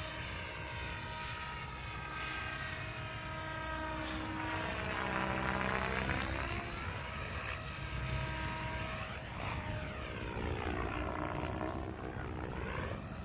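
Meta Raw 580 electric RC helicopter in flight, its motor and rotor whine sweeping down in pitch and back up twice. A low rumble of wind on the microphone runs underneath.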